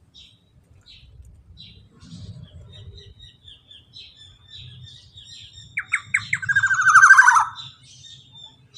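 Black-naped oriole (kepodang) singing: short high chirps, then a loud, fast trill about six seconds in that falls slightly in pitch and lasts about a second and a half. This long rapid trill is the 'ropel' that bird keepers prize.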